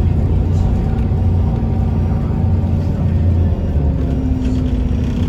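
Scania L94UB bus's DSC9 nine-litre six-cylinder diesel engine running under way, with a steady low drone whose note changes about three and a half seconds in.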